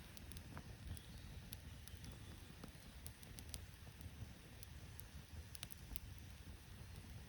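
Wood campfire crackling faintly, with scattered sharp pops over a low steady rumble.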